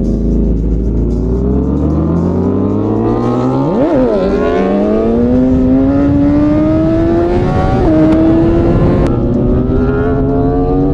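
Sportbike engine accelerating hard through the gears: the pitch climbs steadily, drops sharply at an upshift about four seconds in and again near eight seconds, then climbs again.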